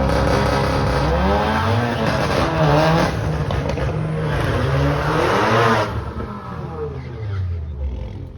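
Drag race car accelerating hard down the strip, its engine note climbing and dropping with each gear change, then fading away after about six seconds.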